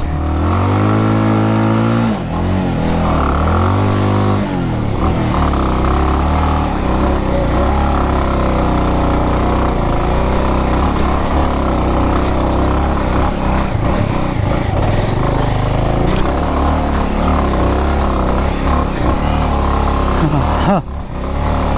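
Motorcycle engine revved twice in rising surges in the first few seconds, then running steadily.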